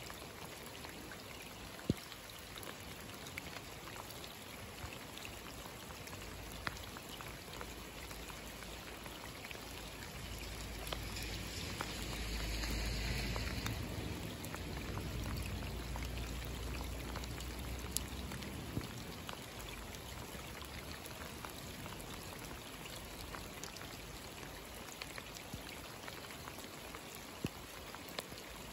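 Steady rain falling into standing water on a flooded street, with many small drop ticks scattered through it. Around the middle a low rumble swells over a few seconds and fades away.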